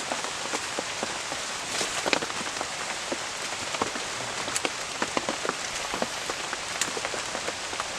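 Rain falling steadily, with many separate drops striking close by as sharp, irregular ticks over the hiss of the downpour.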